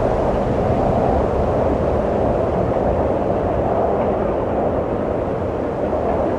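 Wind blowing steadily, a continuous low rushing without gusts or breaks.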